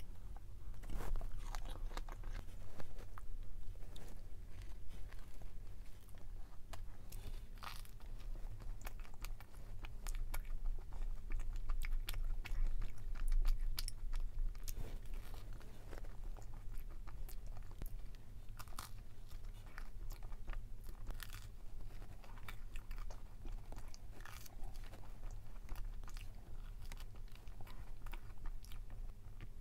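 A person chewing and crunching crisp food close to the microphone: irregular crackly bites and chews throughout, over a steady low hum.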